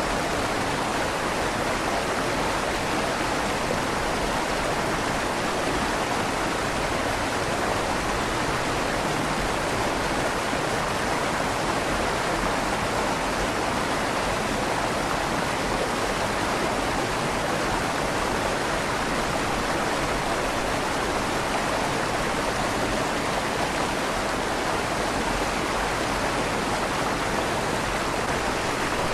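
River water flowing steadily through the tunnel under a stone bridge, a constant rushing with a slight echo off the tunnel walls.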